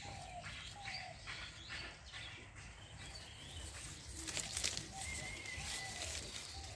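Birds calling outdoors: short falling notes repeated every second or so, with a brief higher whistle about five seconds in. Leaves and branches rustle as they are brushed by hand.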